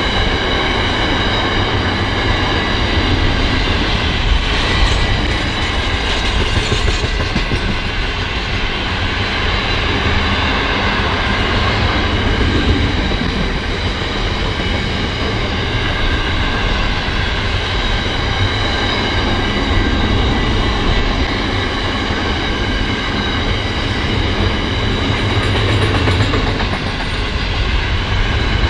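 Pacific National intermodal freight train's container wagons rolling past steadily, wheels running on the rails with a steady high-pitched ringing over the rumble.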